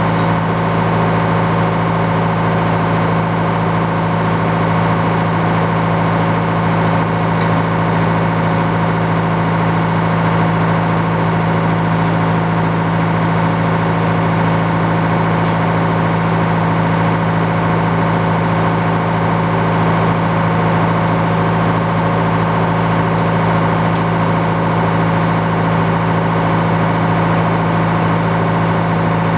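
The engine powering a Frick circular sawmill, running steadily at an even speed.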